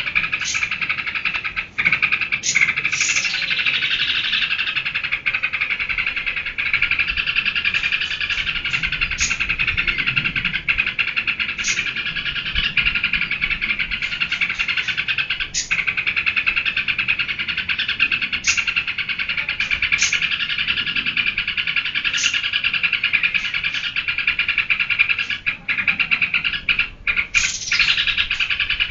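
Yellow-vented bulbul (trucukan) singing in 'geberan' style, a dense, continuous run of rapid chattering song with short sharp high notes scattered through it.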